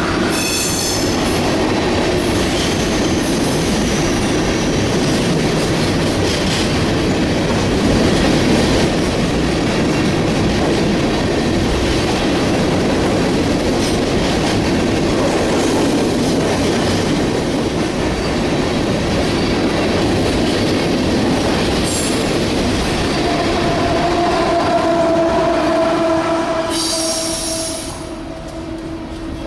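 A train passing close by with a steady, loud roll of wheels on rail. High-pitched wheel squeals come in briefly about half a second in and again near the end.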